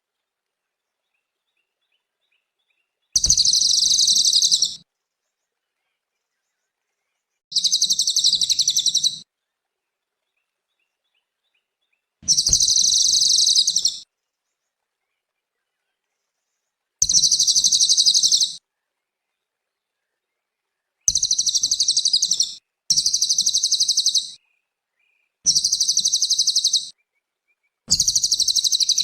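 Cililin songbird singing in repeated bursts of a rapid, high trill, each about a second and a half long. There are about eight bursts, separated by silence, and they come closer together in the second half.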